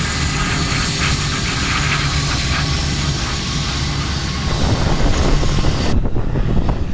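Jet airliner engines running loud and steady, heard outdoors with wind rumbling on the microphone; the sound grows heavier about four and a half seconds in, and the high end drops away abruptly near the end.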